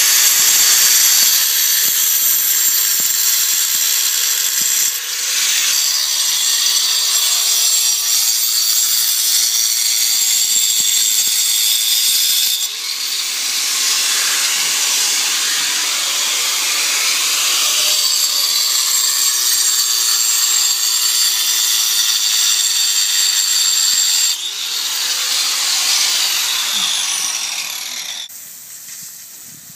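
Power saw with a diamond blade cutting concrete: a steady high whine and grinding, in stretches that change abruptly, fading out shortly before the end.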